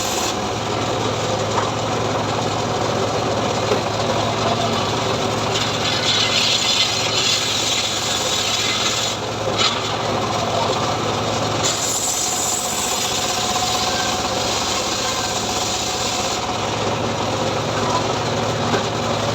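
Homemade engine-driven saw rig cutting through sengon (albizia) wood, the engine running steadily underneath. The cutting grows harsher in two stretches, about six to nine seconds in and again around twelve seconds in.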